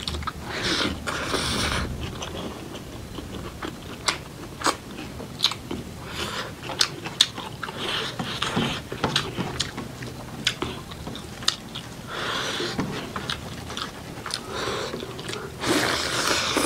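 A person chewing and biting through a Nepali rice meal of dal bhat with soybean choila and potato fry, with sharp crunchy clicks scattered throughout and several longer stretches of noisy, wet chewing.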